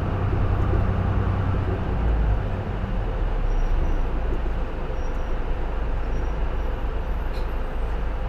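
Interior running sound of a J-Bus PKG-LV234L2 (Isuzu Erga) city bus: its six-cylinder diesel engine pulls under load, then its note drops to a lower pitch about two to three seconds in and it runs on more quietly, over steady road and cabin rumble.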